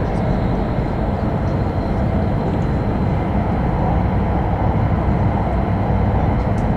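Steady rumble and roar of an E5 series Shinkansen running at speed, heard from inside the passenger cabin.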